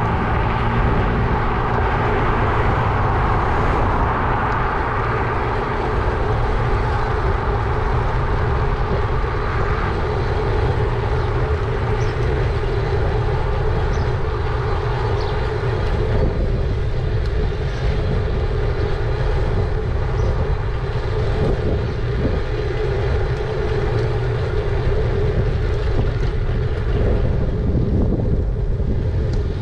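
Steady riding noise from a moving e-bike: wind rushing over the microphone and the rumble of tyres rolling, with no sudden events.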